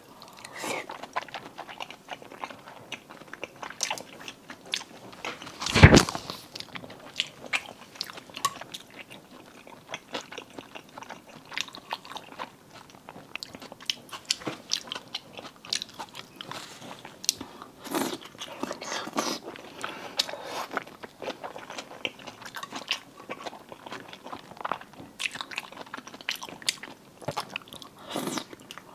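Close-miked eating of seafood: steady chewing, biting and crunching with wet clicks and smacks. There is a single loud thump about six seconds in.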